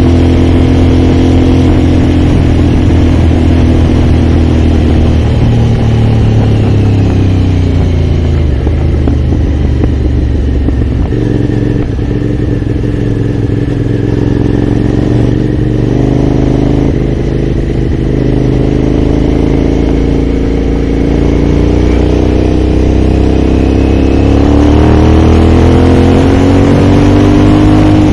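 Aprilia Shiver's V-twin engine running while the motorcycle is ridden, the revs dropping off about a quarter of the way in, staying lower through the middle, then rising again near the end as it pulls.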